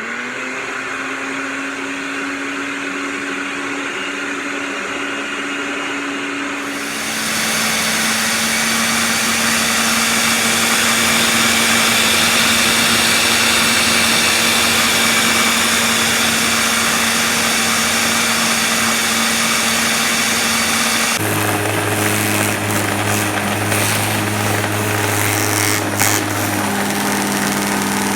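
Blender motor running, blending fruit with almond milk. It starts abruptly; about seven seconds in its pitch drops and it gets louder, and in the last seven seconds its tone shifts unsteadily.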